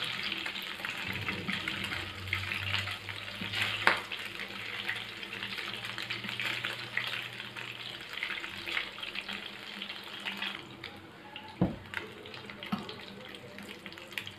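Beef kababs frying in their own rendered fat in a shallow pan, a steady crackling sizzle as they brown once the yogurt liquid has cooked off. A couple of sharp knocks of the spatula or fork against the pan, about four seconds in and near the end.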